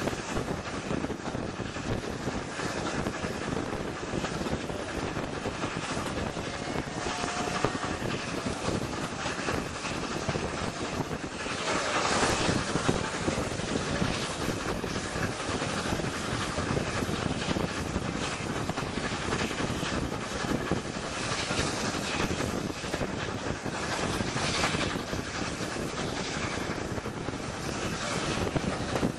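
Railway carriage running along the line: a steady rush of wheels on rails and wind, which swells for a couple of seconds about twelve seconds in.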